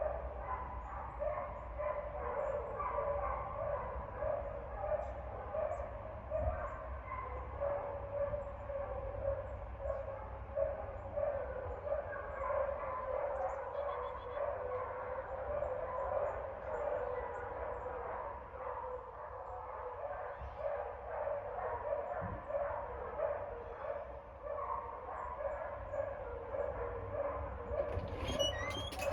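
A dog barking over and over in a steady rhythm, about two barks a second, with no break.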